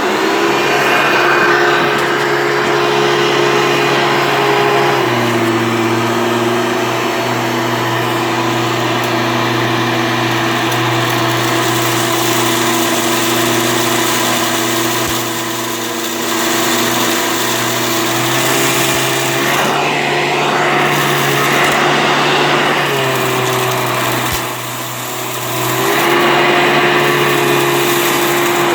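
Hoover Elite upright vacuum cleaner running loudly with a steady motor whine. Its pitch shifts a few times as the load on the motor changes, with a brief dip in level about 24 seconds in.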